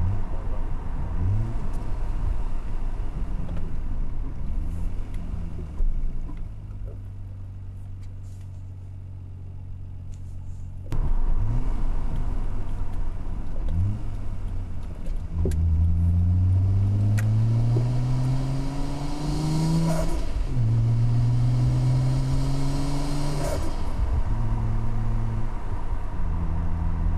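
Car engine idling steadily, then accelerating: the engine note rises in pitch, drops at a gear change about twenty seconds in, and rises again.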